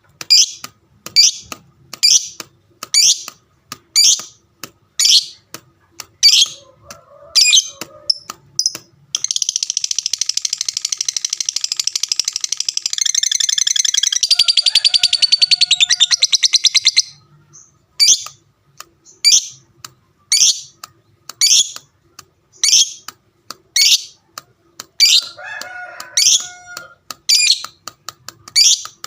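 Lovebird calling: loud, shrill chirps repeated about once or twice a second, breaking about nine seconds in into a long, rapid chattering trill (the 'ngekek') that runs for about eight seconds before it returns to separate chirps.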